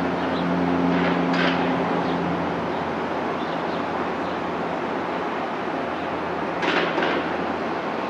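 Cessna 208B Caravan's single Pratt & Whitney PT6A turboprop engine and propeller under takeoff power: a steady rushing drone whose low tones fade about two seconds in as the aircraft moves away. Two short sharper noises come through, about a second and a half in and again near the end.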